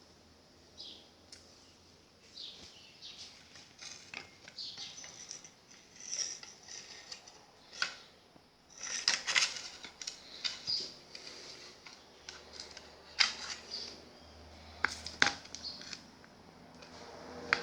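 Irregular clicks, taps and rustles of small hard objects being handled, with a few sharper metallic ticks and a faint low hum in the second half.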